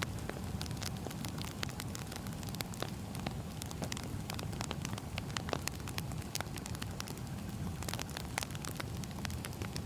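Wood fire burning, with a steady low rumble and many irregular crackles and pops of burning firewood.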